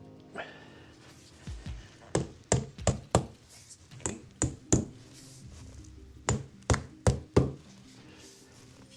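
Sharp knocks and taps in three quick runs of three to five strikes each, with background music under them.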